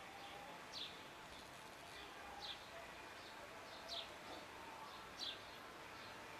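A bird repeats a short, high chirp that sweeps downward, four times about one and a half seconds apart, over faint background noise.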